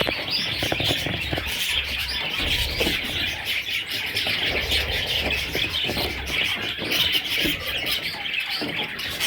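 Budgerigars chirping and chattering nonstop, many voices overlapping at once.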